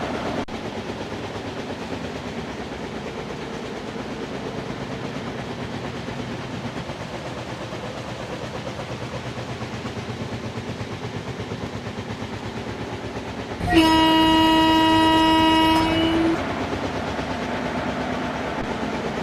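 Train running with a steady rumble and fast rhythmic wheel clatter. About two-thirds through, the WAP-7 electric locomotive's horn sounds one loud blast lasting about two seconds.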